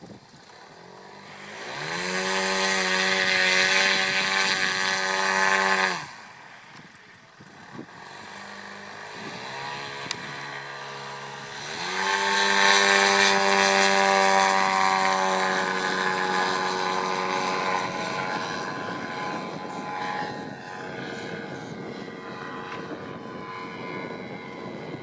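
Giant-scale Piper model airplane's 3W 157 cc petrol engine and propeller. The throttle opens to full for about four seconds and snaps back to idle. It then opens up again and holds, and over the last ten seconds the sound slowly drops in pitch and fades.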